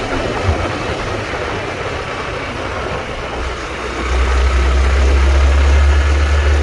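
Honda Trail 125 motorcycle under way, its single-cylinder engine running under a steady rushing noise. A deep rumble swells louder about four seconds in.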